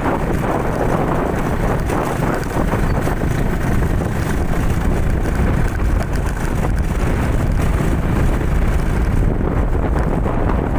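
Steady wind rushing over the microphone of a moving motorcycle, with the motorcycle's running noise underneath.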